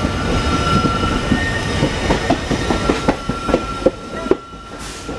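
Passenger train coaches running over the rails: a steady rumble with a thin steady whine above it, and a quick run of wheel clacks over rail joints midway. The sound drops noticeably quieter about four seconds in.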